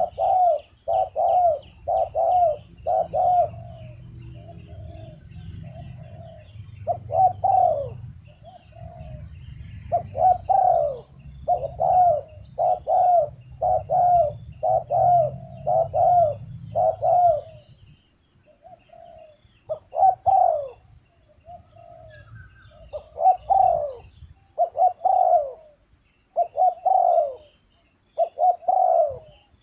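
Spotted dove cooing over and over in runs of quick, low, hollow coos broken by short pauses. A low rumble runs underneath for the first half, and other small birds chirp faintly in the background.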